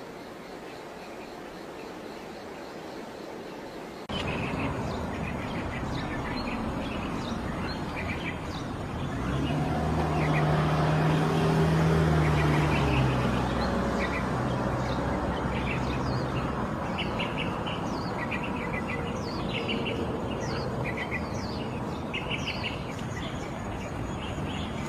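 Outdoor ambience with many short, high chirps from small birds. About nine seconds in, a low steady engine-like drone rises, then fades out around thirteen seconds.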